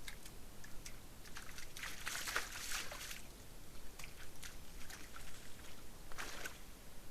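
Red deer hind splashing and wallowing in a muddy pool: two longer bursts of sloshing water, about two seconds in and again about six seconds in, with small splashes and clicks between them.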